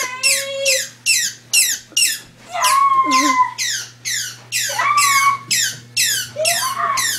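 Rapid, relentless run of shrill squeaks, each sliding down in pitch, about two a second, broken by a few longer wavering squeals; a steady low hum runs underneath.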